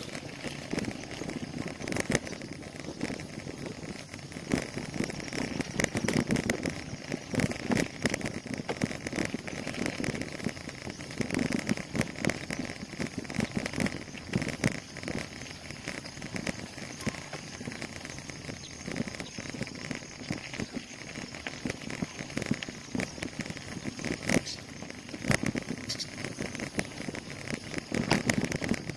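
Bicycle being ridden, its frame and parts rattling with many irregular clicks and knocks over a steady rushing noise.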